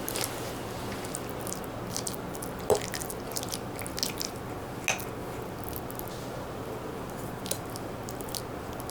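Close-up eating sounds: soft chewing and small mouth clicks, with a sharper tap about three seconds in and another about five seconds in, over a steady low hum.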